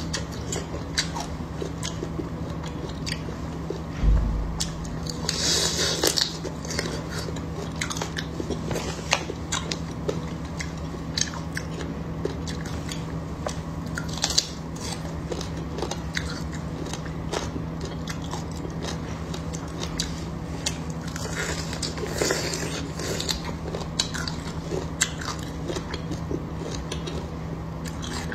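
Close-miked biting and chewing of crispy, fatty fried beef brisket: a run of crunchy snaps and chewing, with louder crunching bites about five seconds in, around fourteen seconds and around twenty-two seconds, and a low thump about four seconds in.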